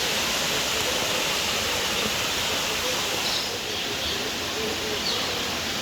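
Steady rushing of running water, a waterfall or stream, with a few faint bird chirps about halfway through.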